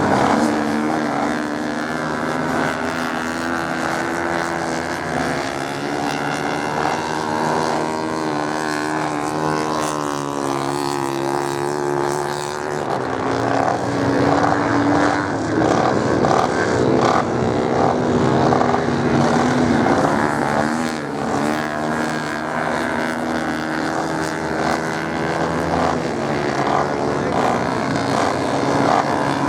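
Several racing motorcycle engines running at once, droning continuously, their pitches rising and falling as they rev and pass.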